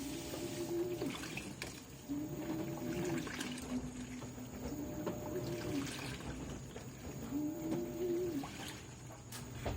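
LG 18 kg washing machine agitating a heavily overloaded load on its duvet wash cycle. The motor whines up and then falls away in repeated swells, about one every one to two seconds, as it turns the load one way and then the other, with water sloshing under it.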